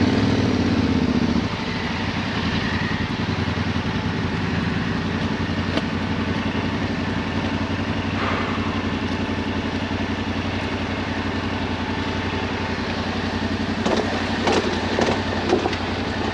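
Motorcycle engine, the parallel twin of a Yamaha Ténéré 700, running steadily at low revs. It gives a short rev that rises and falls in the first second or so. A few sharp clicks come near the end.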